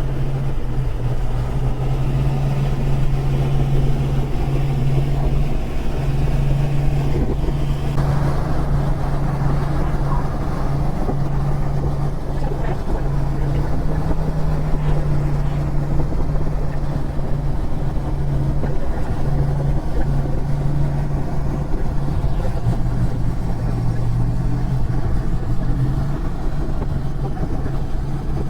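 Indian Challenger's V-twin engine droning steadily at highway cruising speed, mixed with wind and road noise rushing past the bike-mounted microphone.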